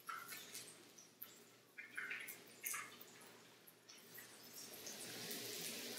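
Starch-coated tofu cubes frying in shallow oil in a frying pan: faint sizzling with scattered short pops and clicks as the cubes are turned with metal tongs. The sizzle grows louder and steadier over the last second or two.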